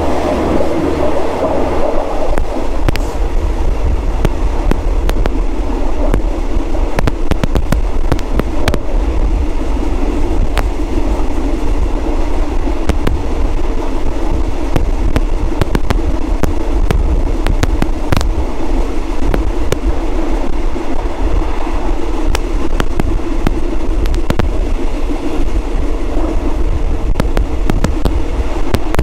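A train running, heard from inside the coach: a steady rumble and hum with frequent sharp clicks and knocks.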